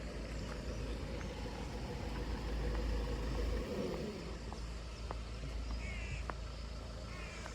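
Train passing on the main line: a low rumble with a falling whine as it goes by, the rumble dropping away about four seconds in. Birds chirp briefly near the end.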